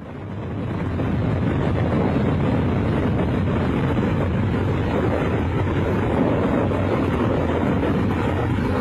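Steady roar of water rushing out of a dam spillway. It swells over the first second and then holds even.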